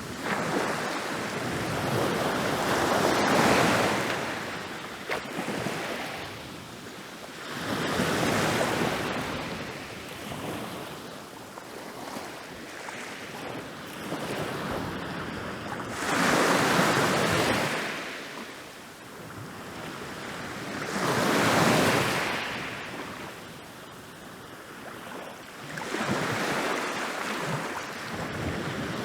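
Ocean waves rolling in and breaking on a beach, each wash of surf swelling and fading every four to five seconds.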